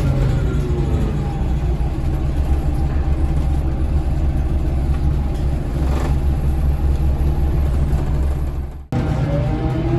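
Scania DC9 diesel engine of a 2003 Scania L94UB bus running under way, heard from inside the bus: a steady low drone, with its pitch sliding down in the first second. The sound cuts out sharply for an instant near the end.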